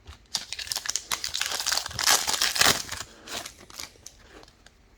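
Foil wrapper of a trading card pack crinkling and tearing as it is opened, a run of crackles that is loudest near the middle and then dies away.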